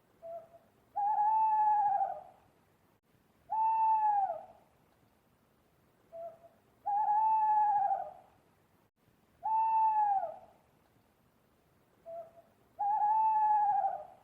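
An animal calling over and over: five pitched, arching calls about a second long, coming roughly every three seconds, three of them led by a short soft note.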